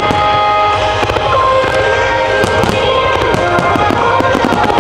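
Aerial firework shells bursting in quick succession, many sharp bangs and crackles, with music playing alongside.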